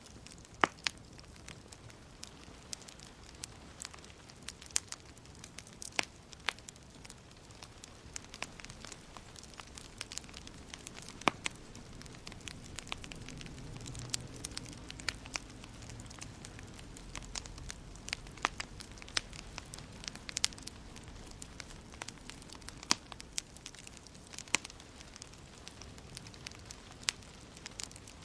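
Wood fire crackling in a fireplace: irregular sharp pops and snaps over a soft steady hiss, with a faint low rumble of the flames for a few seconds midway.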